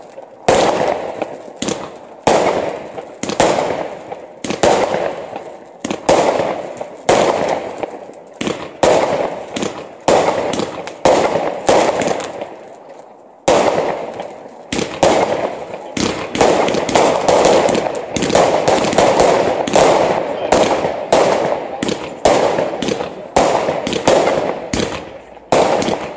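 Aerial fireworks bursting overhead: a long run of sharp bangs, each trailing off into echo and crackle. They come about one a second, pause briefly near the middle, then come faster and thicker, several a second.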